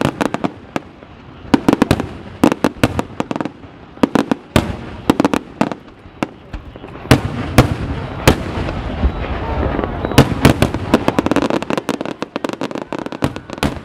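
Aerial fireworks display: shells bursting in many sharp bangs at an irregular, rapid pace, with crackling in between, denser for a few seconds in the middle.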